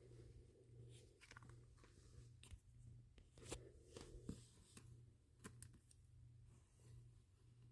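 Faint, scattered clicks and light rustling of small beads being handled and gathered up by hand, over a low steady hum.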